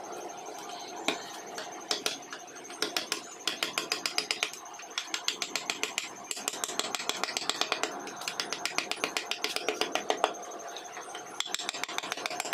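Hand carving tools working wood: a rapid run of short, sharp taps and cuts, several a second, thickening after the first few seconds. A faint steady high tone runs beneath.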